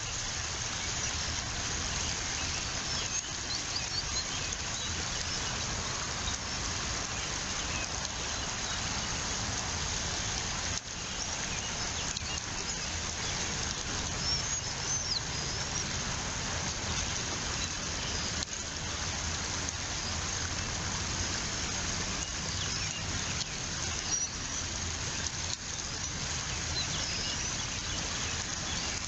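Steady outdoor hiss on a nest camera's microphone, with faint, scattered high bird chirps.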